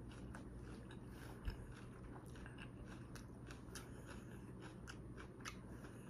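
Close-miked chewing: a string of faint wet clicks from a mouth eating, with one soft low thump about one and a half seconds in.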